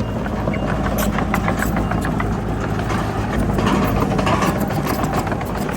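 Diesel engine of heavy earthmoving machinery running steadily, with frequent short clanks and knocks over it.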